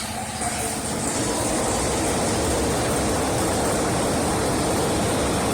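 Six-cylinder stationary diesel engine running steadily. The noise swells slightly over the first second or so, then holds even.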